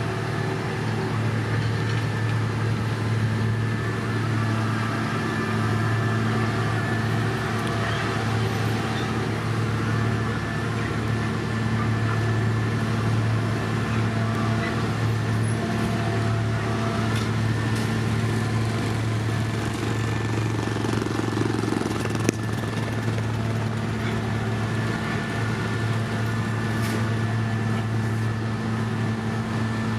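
Heavy diesel road-construction machinery running steadily, a constant low engine hum with a fainter high whine over it. A single sharp click about three-quarters of the way through.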